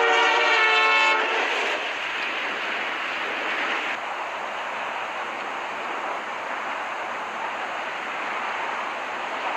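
Locomotive air horn sounding a multi-note chord that cuts off about a second in, followed by the steady rushing noise of the train running past.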